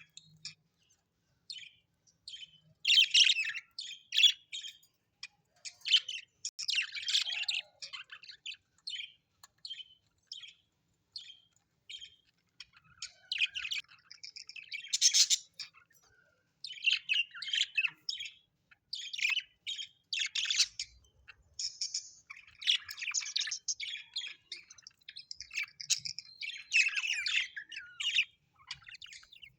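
Birds chirping and squawking in a busy, irregular stream of short high-pitched calls, with several louder flurries.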